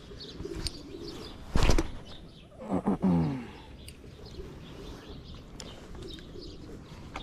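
Birds chirping in the background. About a second and a half in there is one loud knock, and about three seconds in a short sound that falls in pitch.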